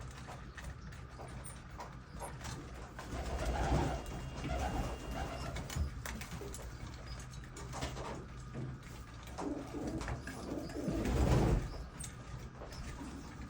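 Domestic pigeons cooing, with two louder stretches of low cooing, one a few seconds in and one near the end, and faint clicks from the birds moving about.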